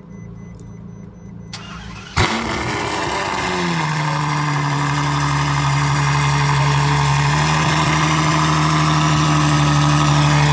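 Ferrari F12berlinetta's 6.3-litre V12 cold-starting: a brief crank, then it catches about two seconds in with a loud flare, the revs falling over the next two seconds and settling into a steady, high cold idle.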